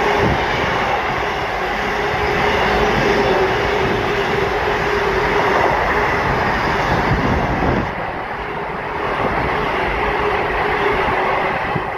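Container freight train's flat wagons rolling past, a continuous rumble and rattle of wheels on the rails with a steady hum running under it. It gets a little quieter about eight seconds in.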